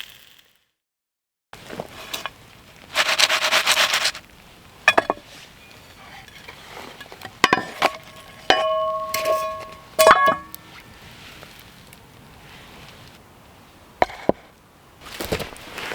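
Metal frying pan being handled while a pan pizza is turned out onto a board: a short hiss about three seconds in, then several sharp knocks and clanks, a few of them ringing briefly with a metallic tone.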